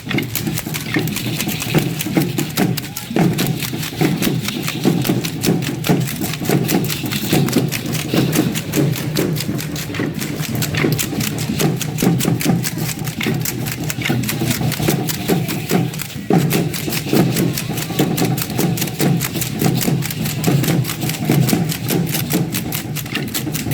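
Matachines dance percussion: a fast, dense clatter of dancers' stamping steps and shaken rattles over a drum beat, with short breaks about three seconds in and again near sixteen seconds.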